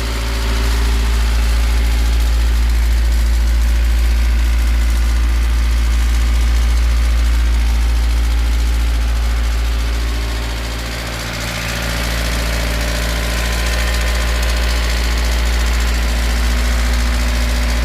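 Toyota 5E four-cylinder petrol engine idling with a diesel-like ringing clatter from the cylinder head. The owner suspects the spring-loaded split gear on the intake camshaft was not preloaded. The engine's level dips briefly about eleven seconds in.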